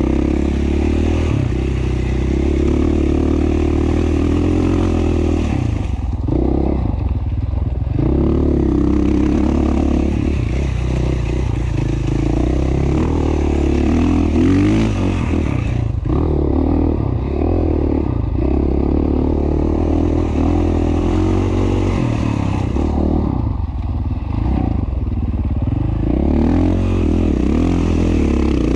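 A 2017 KTM 450 XC-F's single-cylinder four-stroke engine running as the dirt bike is ridden, revving up and easing off. The throttle drops off briefly a few times.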